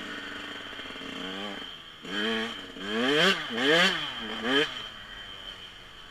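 Dirt bike engine idling, then revved in four quick blips, each rising and falling in pitch, the loudest about three to four seconds in.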